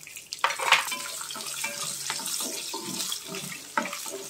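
Green chillies sizzling in hot oil with a tempering of dal, mustard and cumin seeds: a steady sizzle starts about half a second in, with a wooden spatula stirring and scraping in the pot.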